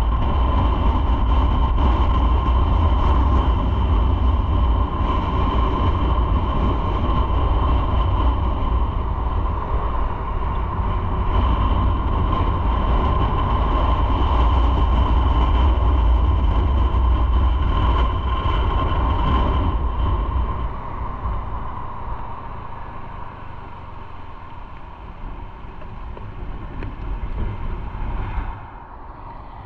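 Motorcycle underway: a steady engine drone with heavy low rumble and wind and road noise. It drops to a quieter run about two-thirds of the way through.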